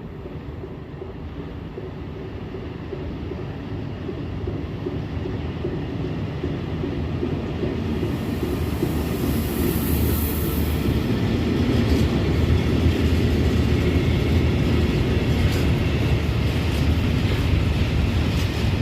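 A train approaching on the rails, its low rumble growing steadily louder for about twelve seconds and then holding level, with scattered sharp clicks over the second half. A brief high hiss sounds about ten seconds in.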